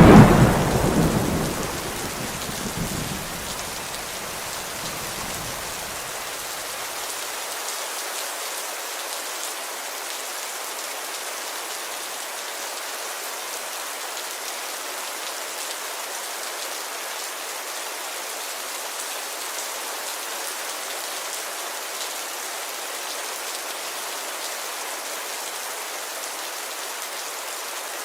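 Steady rain pattering on a window pane. A clap of thunder at the very start rumbles away over the first few seconds.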